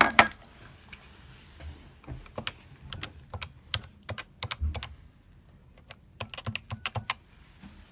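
Keys clicking on a computer keyboard, irregular keystrokes with a quick run of them near the end.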